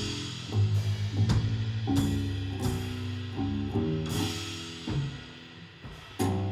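Live band playing an instrumental passage: drum kit strokes roughly every two-thirds of a second over held bass and chord notes, with a cymbal crash about four seconds in and a heavy hit near the end that rings out.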